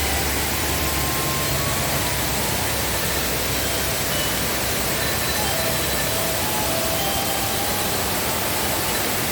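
Waterfall roaring in heavy rainy-season flow: a steady, even rush of falling water.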